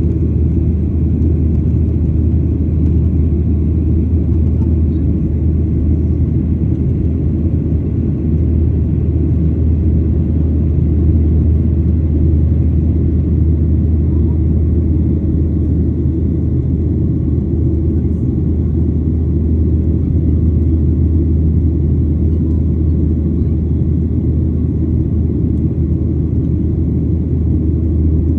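A steady low rumble, unbroken and even in level throughout.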